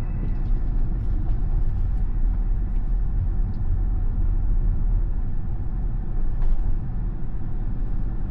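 Steady low rumble of road and wind noise inside the cabin of a moving Tesla, an electric car, so no engine is heard.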